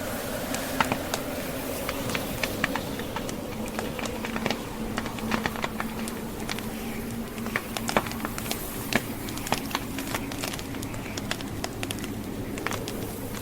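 Burning logs crackling and popping in a fireplace, irregular sharp snaps over the steady wind noise of a snowstorm.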